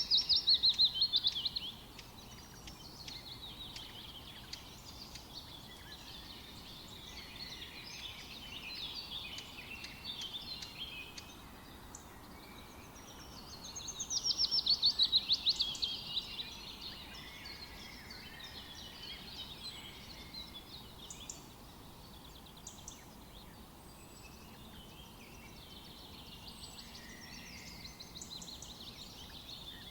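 A chorus of many songbirds chirping and singing over one another. Two louder songs of fast repeated notes stand out, one right at the start and one about halfway through.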